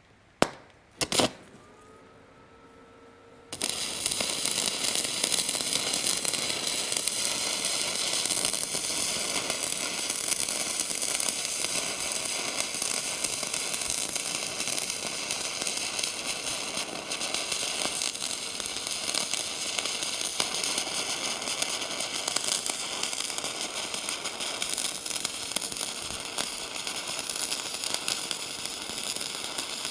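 Two metal knocks with a brief ring, then a few seconds in a stick welding arc strikes and crackles steadily as an electrode burns along the skid steer bucket's new leading edge.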